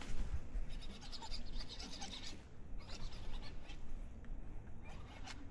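Fishing reel being cranked in spurts, its rapid scratchy clicking coming in runs with short pauses, over a low rumble of wind on the microphone.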